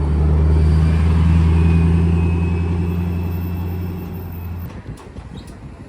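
A vehicle engine idling steadily with a deep low hum, easing off and then shutting off about three-quarters of the way through, followed by a few light clicks.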